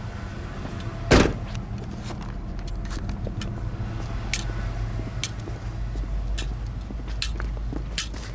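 A car door slams shut about a second in, then footsteps follow, a sharp step roughly every second, over a steady low engine hum.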